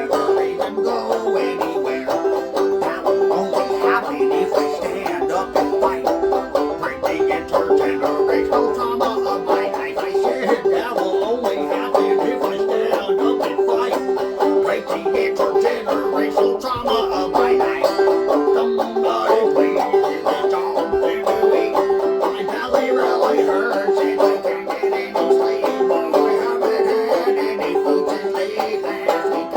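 Bluegrass-style string band song with banjo picking out dense, fast plucked notes over a steady accompaniment.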